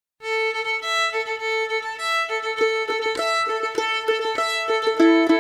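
Irish traditional tune starting just after the opening, a fiddle playing a quick run of notes as the melody.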